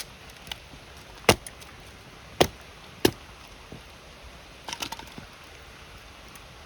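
Wood campfire crackling, with three loud sharp pops about a second apart and a quick flurry of smaller snaps a little later, over the steady hiss of a flowing river.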